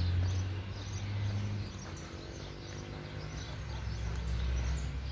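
Birds chirping with scattered short calls over a low rumble that eases off after about two seconds.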